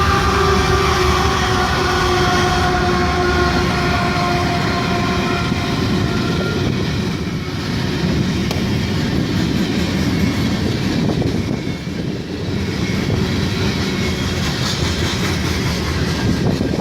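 Norfolk Southern freight train passing. The locomotive's multi-note horn chord sounds, drops slightly in pitch, and fades out about five seconds in, leaving the steady rumble and clatter of wheels on rail.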